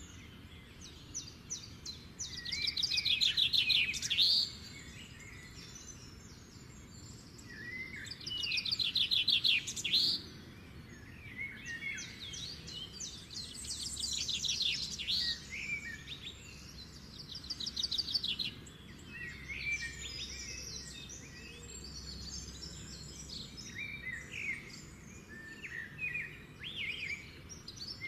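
Small birds singing: a rapid trilled song repeated four times, about every four to five seconds, with scattered short chirps and whistled notes in between.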